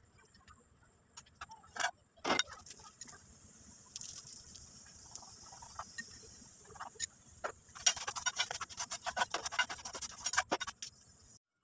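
Semolina flatbread sizzling on a hot iron tawa: a couple of sharp knocks about two seconds in, then a steady hiss from about four seconds that turns into dense crackling near the end as a metal spatula works under the bread to turn it.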